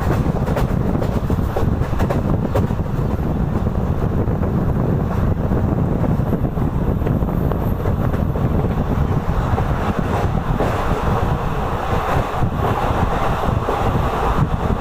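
Moving passenger train running at speed, a steady low rumble with wind buffeting the microphone and a few faint clicks of the wheels over the track.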